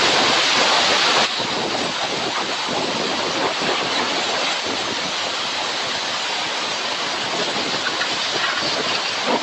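Compressed air blowing from an air nozzle onto refrigerator condenser coils to blast the dust out: a continuous loud hiss that drops a little in level about a second in, then holds steady.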